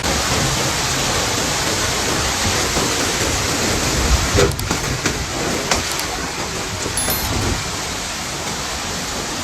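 Heavy hail pelting down: a dense, steady rattling roar, with a few sharper individual hits standing out about halfway through.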